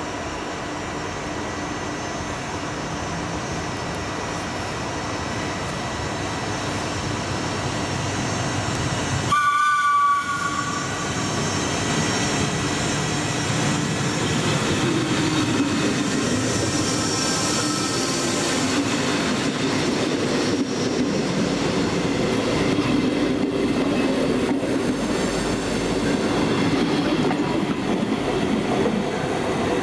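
A train coming through a railway station, growing louder, with one short horn blast about ten seconds in; it then runs past with a steady rumble and hum.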